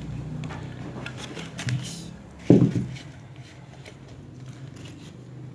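Handling noise from water pump parts being fitted: scattered light clicks, then one sharp knock about two and a half seconds in, over a low steady hum that fades.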